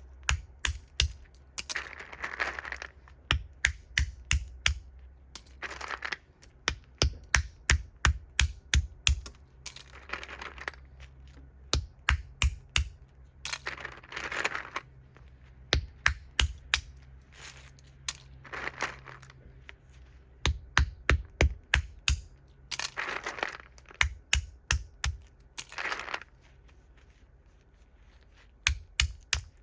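Walnut shells being cracked open: runs of sharp cracks and clicks, broken up by short spells of rustling noise.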